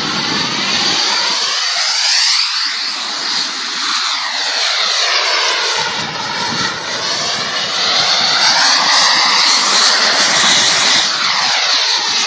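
Fighter jet flying past, its engine noise loud and continuous, with a hiss that sweeps down and back up in pitch as the aircraft moves overhead.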